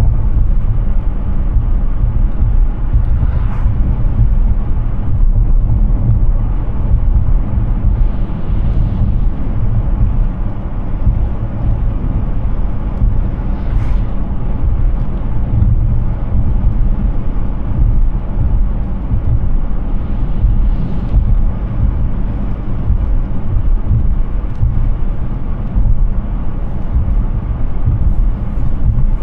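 Steady road and wind noise from a Hyundai Ioniq 6 driving at speed, with no engine note because the car is electric. A dense low rumble sits under a lighter tyre hiss, and three brief hisses rise above it through the stretch.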